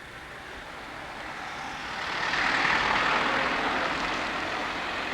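A vehicle passing by, its rushing noise swelling to a peak about two and a half seconds in and then slowly fading.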